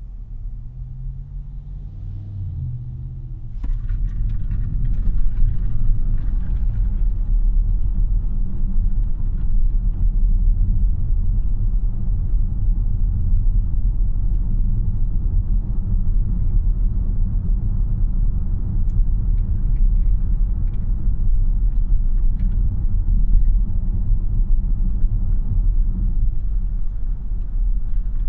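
Road and tyre rumble heard inside the cabin of a 2026 Tesla Model Y AWD while it is driving. It is quieter for the first few seconds, then steps up about three and a half seconds in and stays steady.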